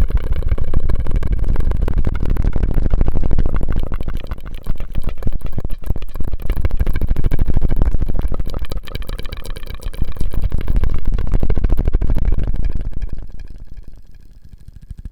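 ASMR mouth and drinking-straw sounds close to a stereo microphone: a dense run of rapid clicks and smacks with heavy low rumble, growing quieter near the end.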